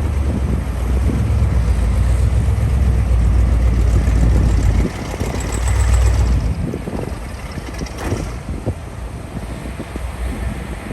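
Heavy construction machine's diesel engine working hard with a loud, deep rumble that eases about five seconds in and drops further about a second and a half later, leaving a lower working rumble. A single sharp knock comes about eight seconds in.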